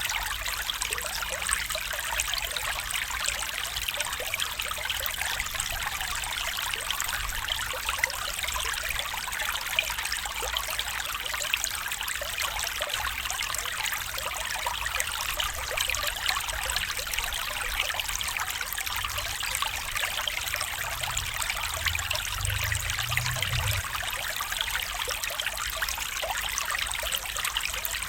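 A stream of running water trickling steadily, an even, unbroken rush, with a brief low rumble about three-quarters of the way through.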